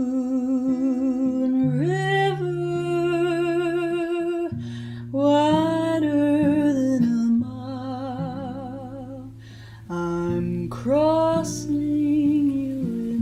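A woman singing long held notes with vibrato, several of them scooping up in pitch, over a plucked acoustic guitar.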